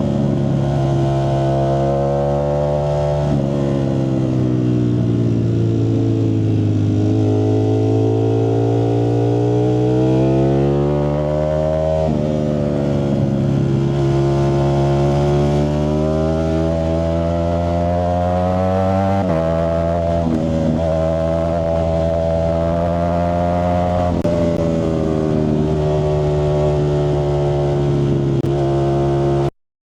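Ducati Streetfighter V4S's V4 engine running through a Zard aftermarket exhaust at varying revs: its pitch slowly sags and climbs, with several abrupt shifts. It cuts off suddenly just before the end.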